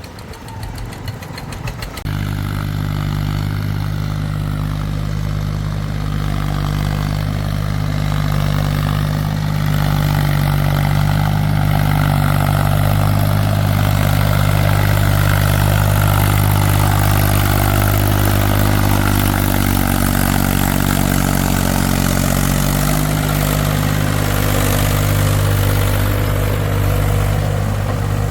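Diesel engine of a heavy farm or construction vehicle running steadily at constant speed. It comes in abruptly about two seconds in, after a quieter rattle.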